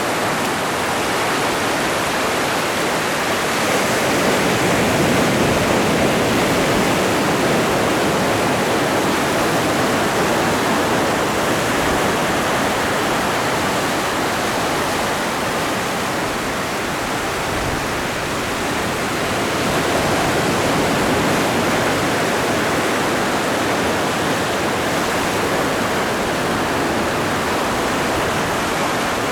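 Atlantic Ocean surf: a continuous wash of breaking waves, swelling gently in loudness now and then.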